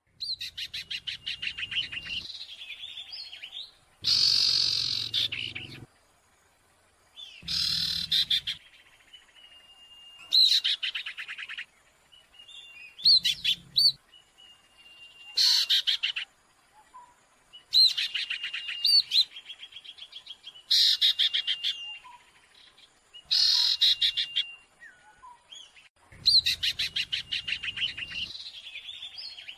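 A sirtu bird calling noisily, the kind of call used as a lure recording: repeated bursts of rapid, chattering notes every couple of seconds, with thin, steady whistled notes between them.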